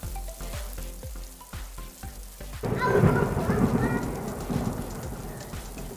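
Rain falling with music underneath. About two and a half seconds in, a sudden louder rumble of thunder sets in and slowly fades.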